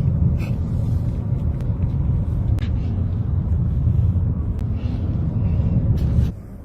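Steady low rumble of a vehicle driving, with a few scattered clicks and crackles; it cuts off suddenly near the end.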